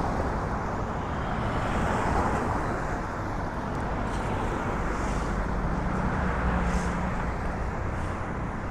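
Steady road traffic noise from passing cars on a city street.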